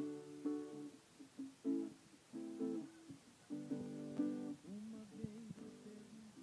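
Acoustic guitar strummed in short chords with brief gaps between strums. In the second half a voice hums or sings softly along.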